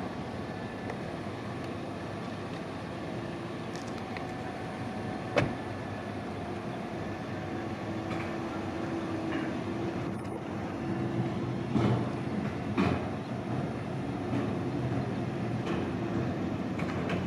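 A vehicle running steadily, with a faint steady hum. There is a single sharp click about five seconds in.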